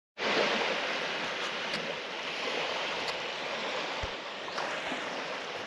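Sea waves washing onto a beach, a steady rush of surf.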